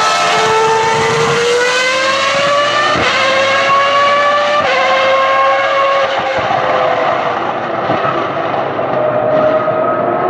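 A Ferrari racing car's engine at high revs on track, its note climbing, broken by quick gearshifts about three seconds in and again near halfway. The note then slowly falls, and another car's engine comes in near the end.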